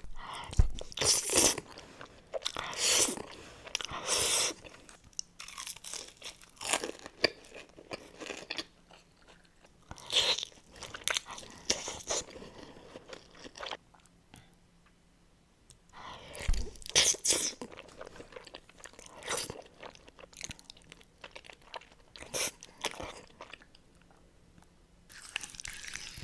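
Close-miked eating: a person biting into and chewing crunchy food, in irregular clusters of loud crunches with quieter chewing between and a short lull about halfway through.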